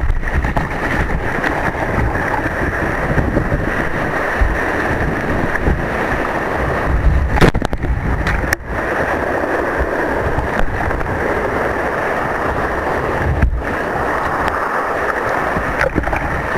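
Rushing surf and water around a kayak, with wind buffeting the microphone: a steady, loud noise with a low rumble that dips sharply once about halfway through.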